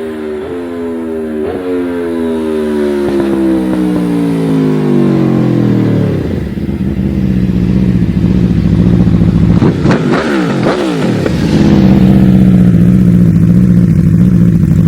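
Aprilia RSV4's V4 engine through a full SC Project titanium race exhaust, revs falling steadily as it grows louder and comes off the throttle. It then settles into a steady low note, with a brief quick rise and fall in revs about ten seconds in, and runs loudest and steady near the end.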